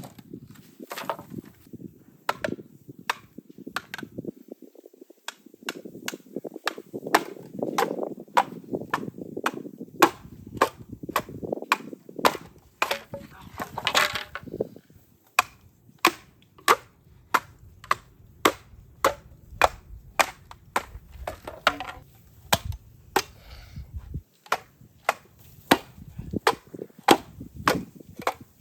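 Bamboo being chopped and split with a blade: a long run of sharp, hard knocks, about two a second at a fairly even pace, over a low rumble.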